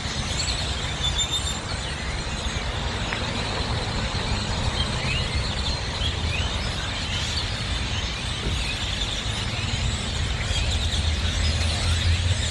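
A large flock of birds calling all at once, a dense, continuous din of overlapping chirps, over a low rumble that grows stronger near the end.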